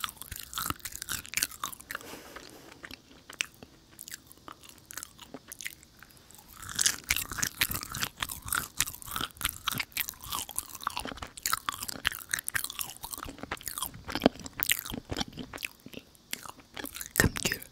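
Close-miked chewing of a sticky, chewy dried jujube with a yuzu filling: wet clicks and smacks of the mouth, sparse at first, then denser and louder from about seven seconds in.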